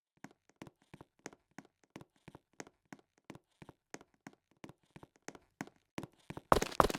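Footsteps on a hard floor, about three a second, growing louder. Near the end a much louder run of sharp knocks sets in.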